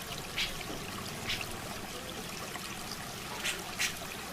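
Steady trickling, running water, with four brief high-pitched chips about a second apart, the last two close together.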